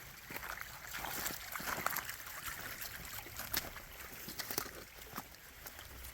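Shallow creek trickling over rocks, with many small irregular clicks and splashes.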